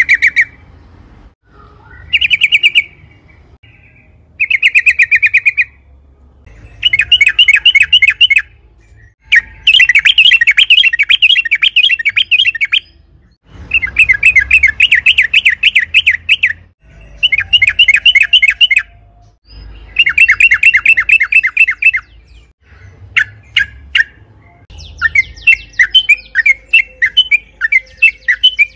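Yellow-vented bulbul (trucukan) singing in repeated bursts of rapid chattering notes, each burst one to three seconds long with short pauses between. Near the end the song breaks into quicker, separate sharp notes.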